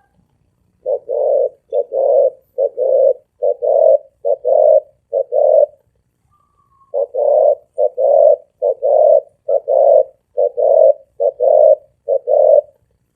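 Spotted dove cooing in the deep, ringing 'thổ ồm vang' voice, two runs of short, low coos with a pause of about a second between them.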